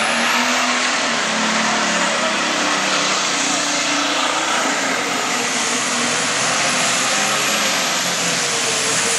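Hot farm class pulling tractor's turbocharged diesel engine running flat out under load as it drags the sled. A high whine climbs during the first second and then holds steady.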